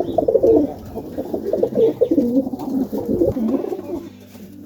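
Domestic pigeons cooing in a loft, several overlapping coos that ease off near the end.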